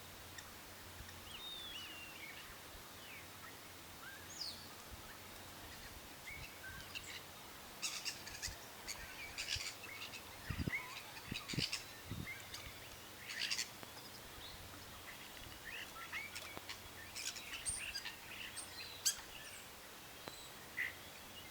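Birds chirping and calling in short, scattered notes over a faint steady background hiss, busiest in the middle of the stretch. Three brief low thuds come close together around the middle.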